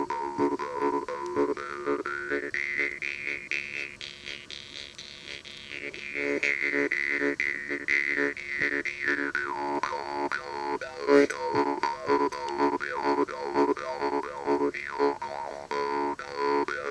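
Jaw harp (vargan) playing a steady drone under a fast plucked rhythm, with an overtone melody sliding above it. The melody climbs about two seconds in, dips again near the middle, and then shifts quickly through the second half.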